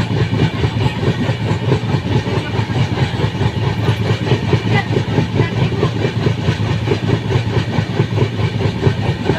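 Train running on its rails: a steady low rumble with a rapid, continuous clatter of wheels over the track.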